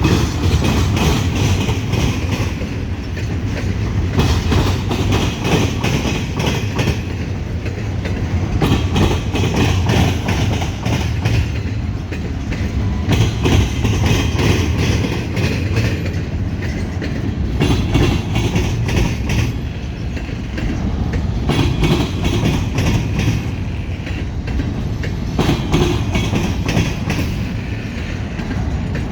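A CSX double-stack container train rolls past at steady speed, its wheels clicking and clattering over the rail joints on top of a continuous low rumble.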